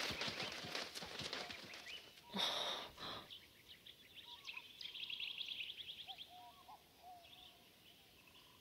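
Faint outdoor birdsong: short chirps and a rapid high trill, with a brief rush of noise about two and a half seconds in.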